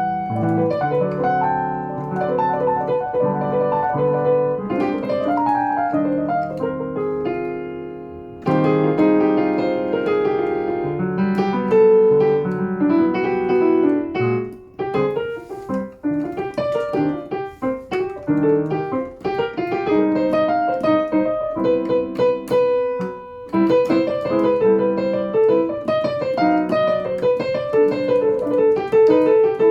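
Solo jazz piano playing chords and melody lines, with a sudden louder entry of chords about eight seconds in.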